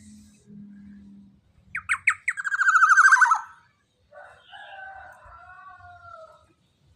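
Black-naped oriole (kepodang) calling: three quick sharp notes about two seconds in run straight into a loud, rapid trill that falls in pitch, followed after a short gap by a softer, longer warbled phrase.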